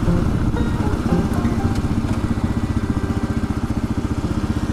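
Kawasaki KLR 650's single-cylinder four-stroke engine running steadily while riding, with a rapid, even beat of firing pulses.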